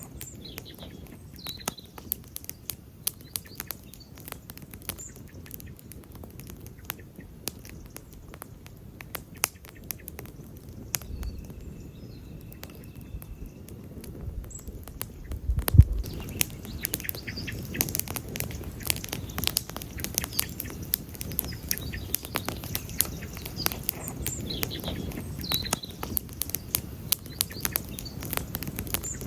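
Wood campfire crackling, with many sharp pops over a low rush of burning, busier and louder in the second half. A low thud comes about 16 seconds in.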